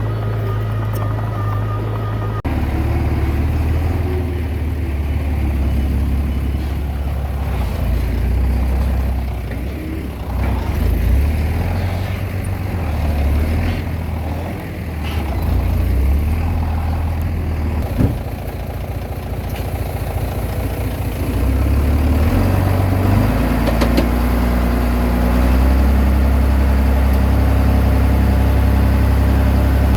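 Komatsu D20P bulldozer's diesel engine running under varying load, its note rising and falling. There is a single sharp knock about 18 seconds in, and the engine settles into a steadier, higher note near the end.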